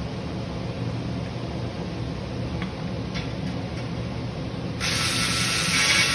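A steady low hum, then about five seconds in a sudden loud, even hiss starts and holds, the sound of spray or air escaping under pressure.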